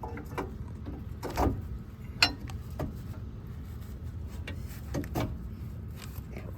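Metal exhaust parts knocking and clinking as a new exhaust section is worked into place. There are a few separate clunks, the sharpest about two seconds in.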